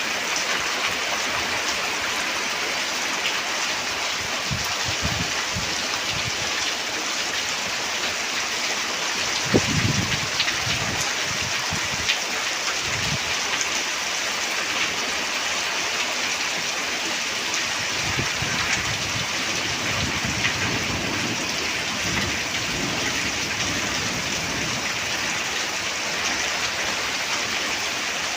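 Steady rain falling, an even, dense hiss of drops. A few brief low rumbles come through about ten and twelve seconds in.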